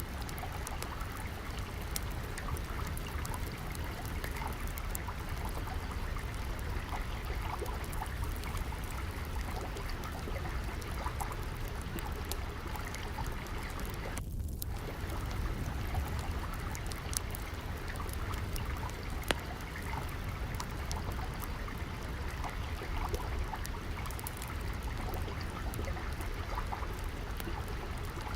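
Steady trickling, flowing water over a low rumble, with scattered sharp pops of a crackling wood fire.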